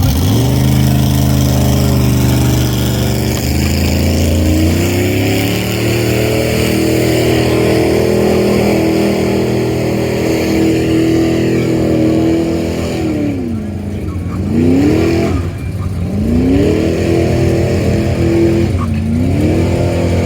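Off-road vehicle engine revving hard during a kinetic-rope recovery pull of a stuck Jeep. The revs climb over the first few seconds and hold high, then drop and surge back twice, with a shorter dip near the end.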